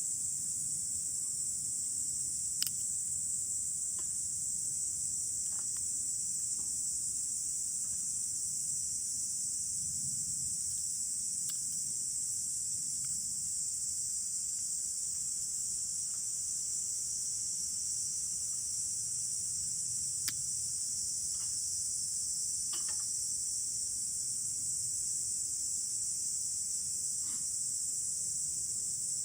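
Steady, unbroken high-pitched chorus of insects, with a few sharp pops from a wood campfire scattered through it.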